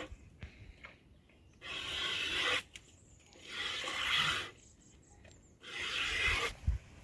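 Repeated rasping, rubbing strokes, three of them about two seconds apart, each lasting about a second.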